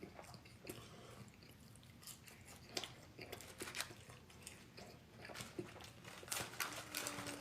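A person chewing and biting food, with scattered crunches and small mouth clicks.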